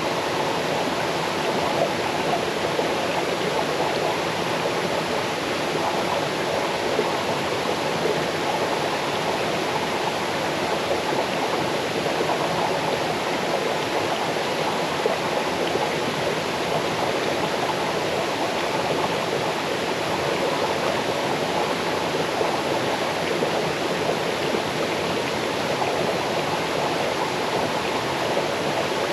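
Small waterfall stream cascading over stones, a steady, even rush and babble of running water.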